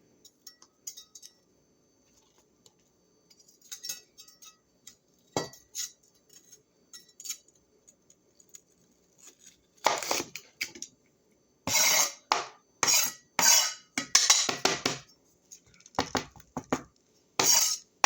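Cutlery and dishes clinking and scraping: scattered light clicks at first, then a busy run of short, sharp clatters from about ten seconds in.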